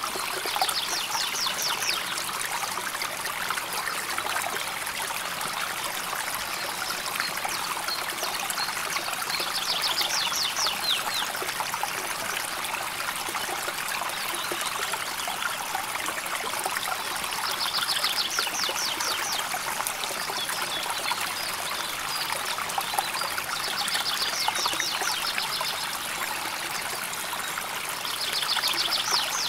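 River water flowing and trickling steadily. A high, rapid trill of fast even pulses comes in about five times, each lasting a second or two.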